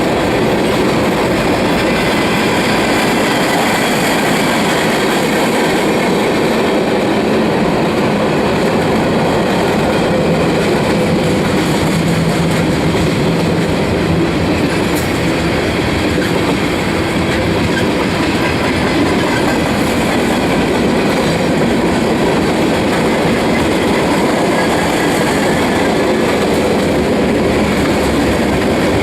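Freight cars of a Union Pacific manifest train rolling past: a steady, unbroken noise of steel wheels on rail.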